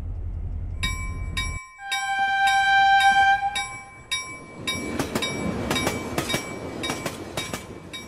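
A train bell ringing in repeated strikes, joined by a train horn blast of about two seconds. Then the bell goes on over a rushing train noise that fades away. A low outdoor rumble underneath stops about a second and a half in.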